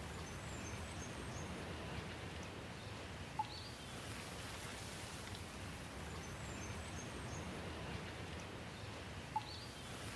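Steady rain falling, an even hiss, with faint high bird chirps in two brief clusters. Twice, about six seconds apart, a short sharp peep is the loudest sound.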